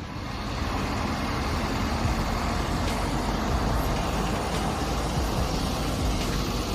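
Heavy truck running steadily, its engine noise heavy in the low end with a faint steady hum.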